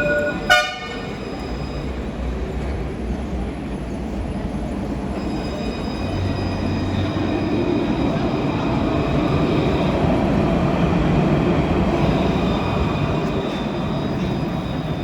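Luas tram (Alstom Citadis) sounding a short ringing warning signal once about half a second in. It then runs on with a steady rumble and a faint high whine that starts about five seconds in.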